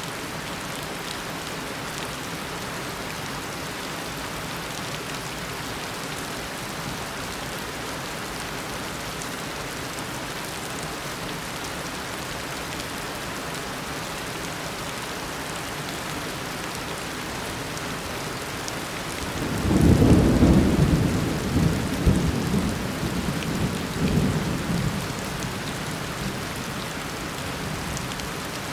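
Heavy tropical rain falling steadily, a continuous hiss. About two-thirds of the way in, a peal of thunder rumbles, loudest at its onset, then rolls on in a few weaker swells for about six seconds before fading back under the rain.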